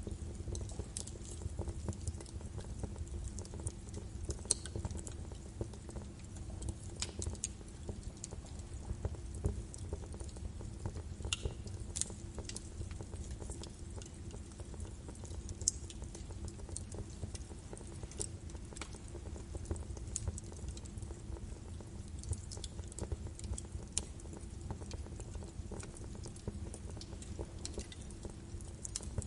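Birch wood fire burning in a fireplace, crackling with irregular sharp pops over a low steady rumble of the flames, a few pops standing out louder.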